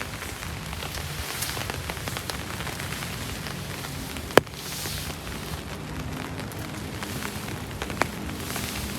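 Rain falling steadily, with a sharp click about four seconds in and a smaller one near the end.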